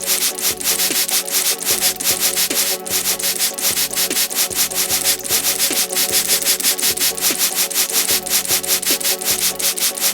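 Quick, even back-and-forth scrubbing strokes, several a second, as a brush rubs the body of a race car during cleaning.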